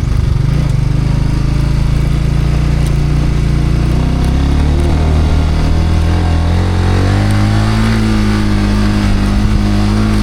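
Light motorbike's engine running under way, rising in pitch as it speeds up from about four seconds in, then holding steady at the higher speed.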